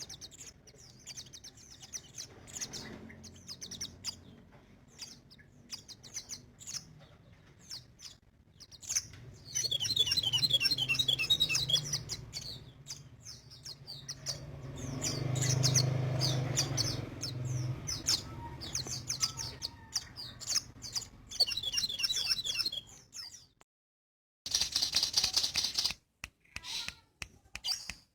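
Sogon, a small sunbird kept as a cage songbird, singing energetically in quick high twittering chirps, with a fast trill about ten seconds in. A low hum sits under the song around the middle, and the song drops out briefly near the end.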